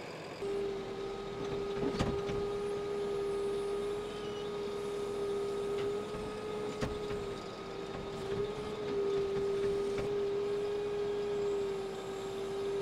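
A motor giving a steady mid-pitched whine that wavers slightly in pitch, with a few faint clicks.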